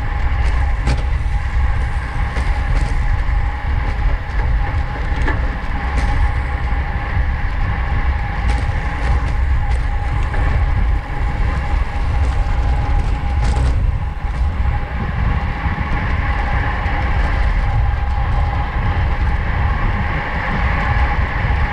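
Road bike riding at racing speed in a pack: wind rumbling on the camera microphone over a steady whirring hum, with scattered sharp clicks.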